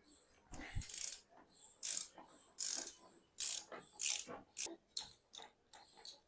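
Hand tools working on metal bicycle parts: a run of short rasping, ratcheting strokes, roughly one or two a second, with a dull knock a little under a second in.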